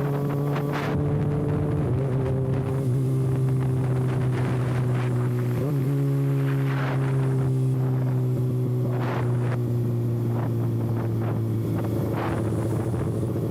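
Kawasaki ZX-6R's inline-four engine running at a steady cruise through an exhaust with its silencer can removed, its pitch sagging slowly, with a brief wobble about two seconds in and again near six seconds. Wind buffets the microphone.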